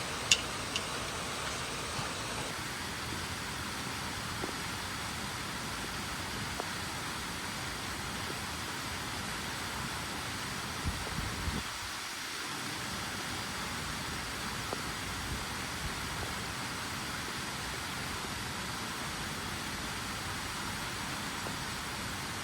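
Steady, even background hiss with no clear pitch, with a few faint low knocks about eleven seconds in.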